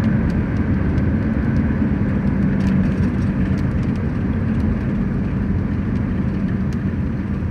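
Steady road and engine noise of a moving car heard from inside the cabin, a continuous low rumble with a steady hum, with a few faint scattered ticks.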